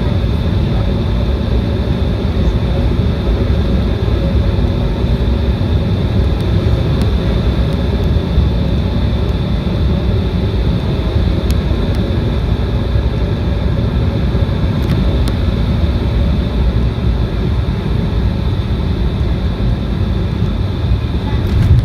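Cabin noise inside an Embraer 175 regional jet: a steady rush of engine and airflow with a thin, constant high whine from its GE CF34 turbofans. There is a brief louder bump near the end.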